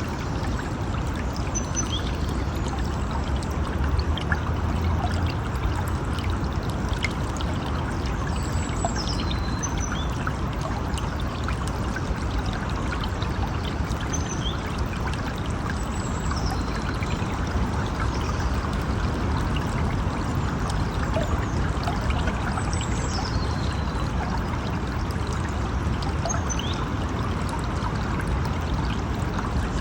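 A river or stream running steadily, with short high chirps that fall in pitch breaking in now and then.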